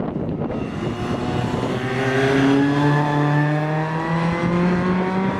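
A car engine accelerating past on the track, its pitch climbing steadily and loudest about two to three seconds in.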